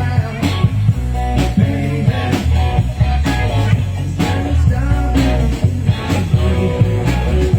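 Live rock band playing: electric guitar and bass over a steady drum beat.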